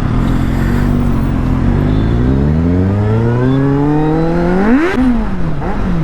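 Superbike engine accelerating hard, its exhaust muffled by a fitted dB killer, the pitch climbing steadily for about four seconds. Near the end the revs flare briefly and then drop quickly.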